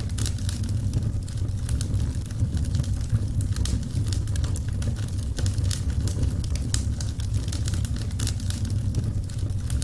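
Burning wood fire crackling, with irregular sharp pops and clicks over a steady low rumble.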